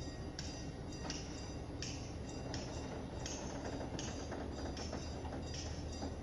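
Level-crossing warning bell ringing in a steady rhythm, a bright strike about every 0.7 seconds, over a low steady hum.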